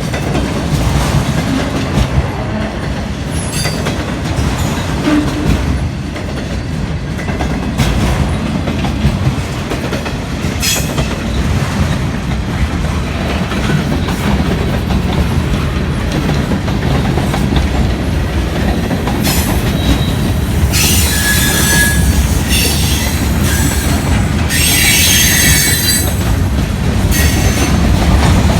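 Freight train cars rolling past with a steady low rumble and wheel clatter over the rails. In the last third, high-pitched wheel squeal comes and goes several times.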